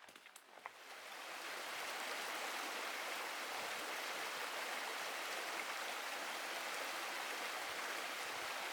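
Steady rushing hiss that builds over the first second or two, holds even, and cuts off abruptly at the end.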